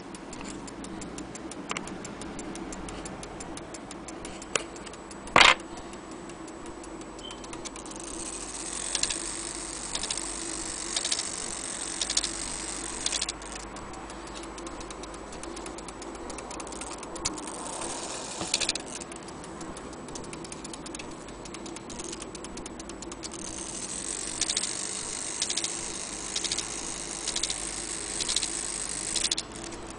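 Mechanical clock ticking steadily, with a single sharp, loud click about five seconds in and spells of hissy rustling noise with stronger clicks in the later part.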